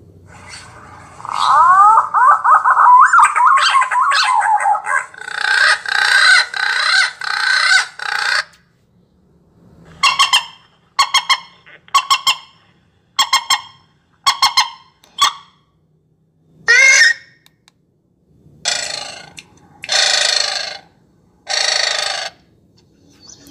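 Recorded bird calls played through a hunting bird-caller speaker: a fast, warbling song with quick up-and-down slurs, then a dense chattering run, then a string of short notes a little over one a second, one rising call, and three longer harsh calls near the end.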